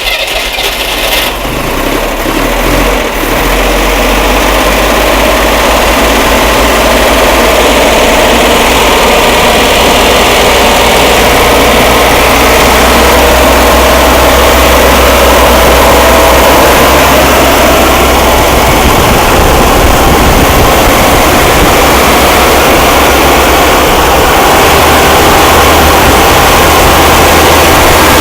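Freshly rebuilt Corvair air-cooled flat-six engine running on its first start: loud, uneven for the first few seconds after catching, then settling into a steady run.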